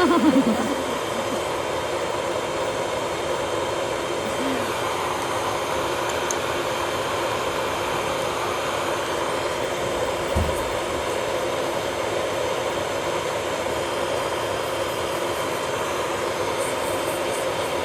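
Small electric motor of nail-salon equipment running with a steady hum, with a brief low thump about ten seconds in.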